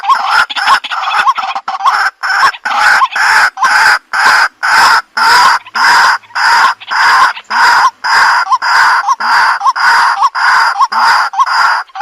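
White-breasted waterhen calling: a long run of loud, repeated harsh notes, quicker and shorter at the start, then settling to about two or three a second. It is a recorded lure call.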